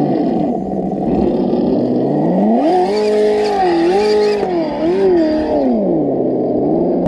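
Simulated truck engine sound from an ESS-One sound module, played through the RC scale truck's small speaker. It idles, revs up about two and a half seconds in, wavers at high revs, and drops back to idle near the end. A brief rushing noise comes with the high revs.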